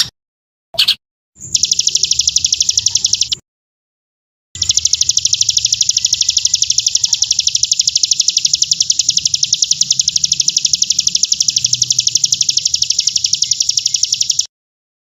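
A bird's high, very fast trill played back as a recorded training song, running on steadily without change in pitch. It breaks off into dead silence a few times: briefly at the start, for about a second around four seconds in, and again just before the end.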